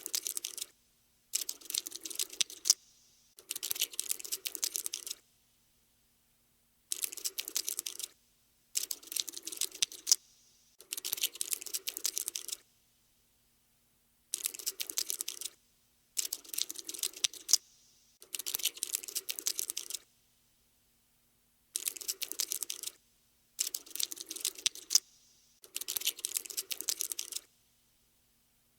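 Cockroach scuttling sound effect: bursts of rapid dry clicking, each a second or two long, with short pauses between, about a dozen times.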